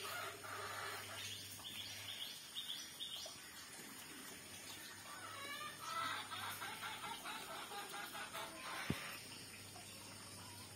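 Background bird calls: strings of short, repeated calls, busiest around six seconds in, with one brief thump near the end.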